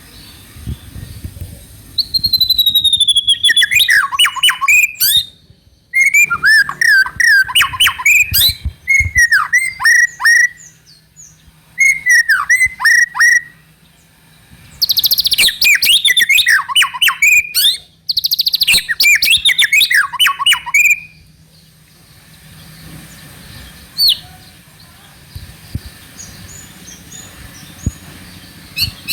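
White-rumped shama singing: loud phrases of down-sweeping whistles and rapid trills, in bursts of two to four seconds with short pauses between them, until about 21 seconds in. After that only a few faint notes.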